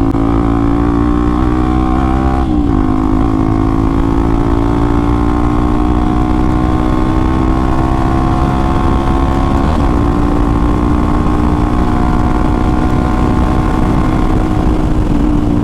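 Single-cylinder engine of a Hero XPulse 200 4V with an aftermarket Akrapovic exhaust, heard while riding at a steady pace. Its note climbs slowly and dips briefly twice, about two and a half and ten seconds in.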